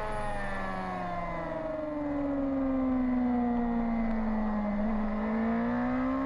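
Racing motorcycle engine at speed on a circuit: its pitch falls steadily for about five seconds as the bike slows, then rises again near the end as it accelerates.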